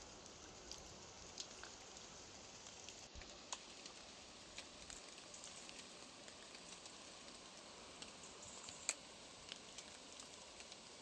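Faint patter of raindrops: scattered, irregular ticks over a soft, steady hiss, with a sharper drop about three and a half seconds in and the loudest one near nine seconds.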